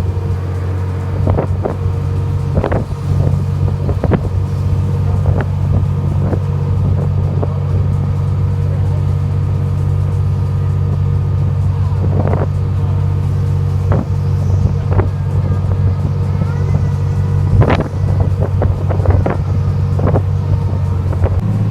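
Steady low drone of a fishing party boat's engine, with wind buffeting the microphone and scattered sharp knocks now and then.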